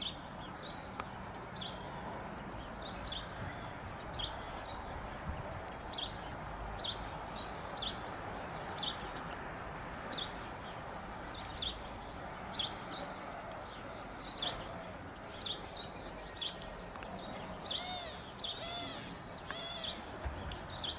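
Small songbirds chirping, short high calls roughly every second, over a steady low background rumble of outdoor ambience.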